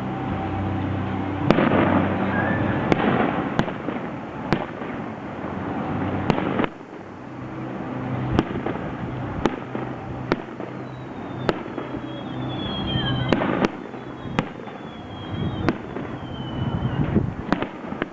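Aerial firework shells bursting: a string of sharp bangs, irregularly spaced, some two or three close together. A low steady hum stops suddenly about a third of the way in, and a few high whistles falling in pitch sound in the second half.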